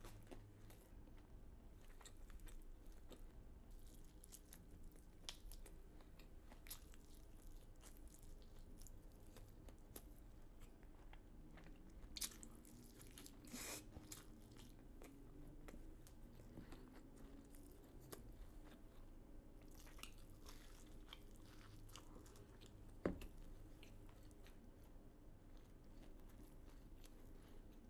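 Faint chewing of KFC chicken and waffles, with small crunches and wet mouth clicks throughout. A few sharper crunches come a little before halfway, and a single loud click comes late on.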